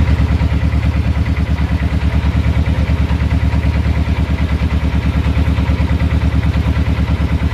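Boat engine running steadily, a fast even chugging of about ten beats a second.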